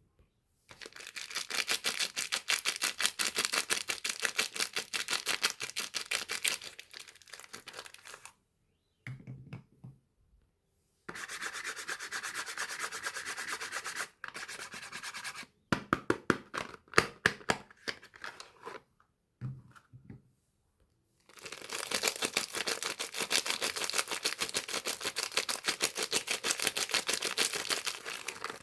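Hands scratching and rubbing on soap bars and their packaging in fast, even strokes. The strokes come in three long runs with short pauses between, and a stretch of scattered sharp clicks and crinkles about halfway through.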